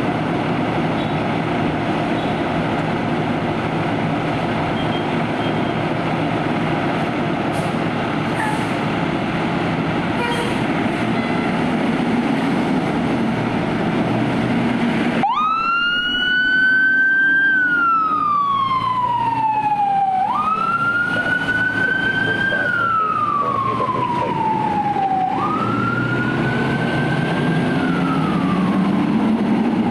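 Steady low vehicle rumble, then about halfway through a fire truck's siren starts. It winds up quickly and falls away slowly, cycling roughly every five seconds over the engine rumble.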